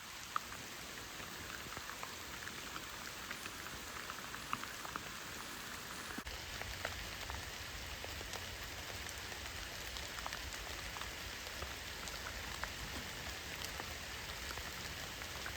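Steady rain falling, a continuous hiss with scattered individual drop taps, and a low rumble joining about halfway through.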